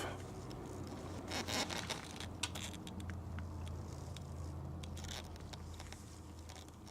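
Faint handling noises, small scattered clicks and a couple of short rustles, as a part is turned in the hands, over a low steady hum.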